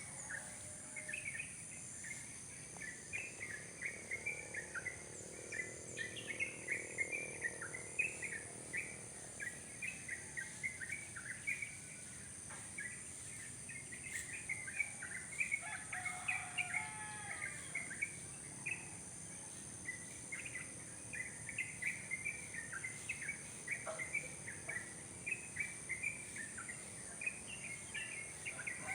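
Wild songbird, called a cerok-cokan locally, singing a long unbroken run of short chirping notes, several a second, with a brief lull just past the middle.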